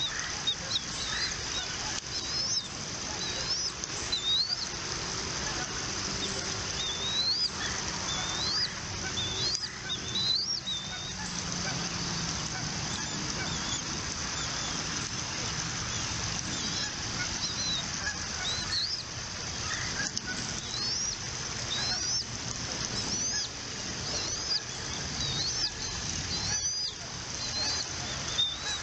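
Bald eagles giving series of high, thin, rising piping calls at the nest, in bouts of several calls a second, over a steady high hiss.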